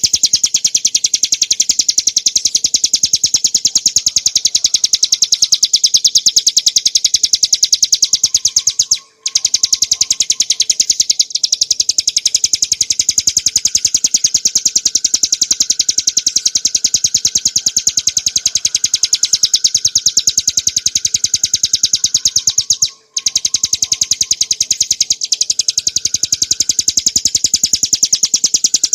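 Ciblek gunung (Prinia familiaris montana, a small prinia) singing a fast, unbroken high-pitched trill of rapidly repeated notes. The song breaks off briefly twice, about nine seconds in and again about twenty-three seconds in.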